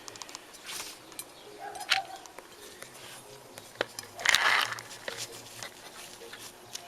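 Small parts being handled on a workbench: scattered light clicks and a brief rustle about four seconds in, over a faint low hum.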